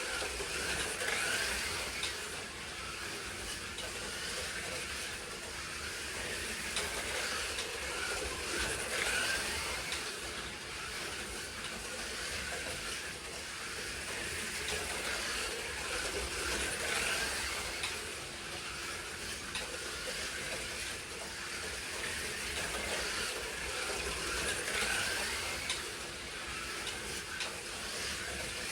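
Slot cars racing around the track: small electric motors whining with the hiss and rattle of the cars on the track, swelling each time they pass close, about every eight seconds.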